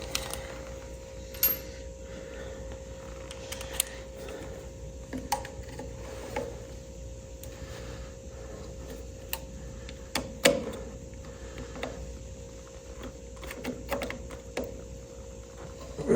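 Scattered small clicks and knocks of hand tools working at a stuck condenser screw in a tractor distributor, the screw's head mangled, over a steady faint hum.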